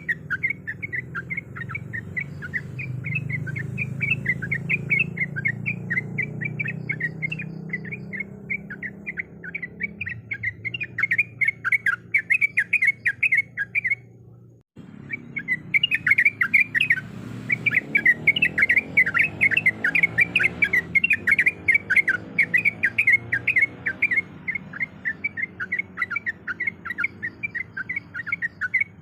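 Yellow-vented bulbul (trucuk) calling in a rapid, continuous run of short chirps, cut off by a brief gap about halfway through before the chirping resumes.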